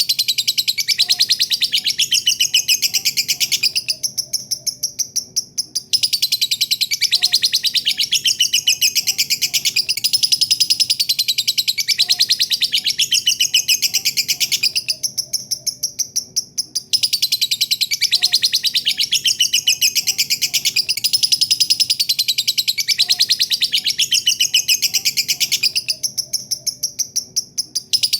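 Lovebird singing its long 'ngekek' chatter: a rapid, continuous high-pitched trill of many notes a second. The trill weakens for about two seconds roughly every eleven seconds, then comes back at full strength.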